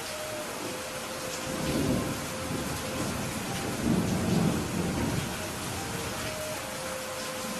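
Steady rain with low rolling thunder that swells twice, about two seconds in and again near the middle.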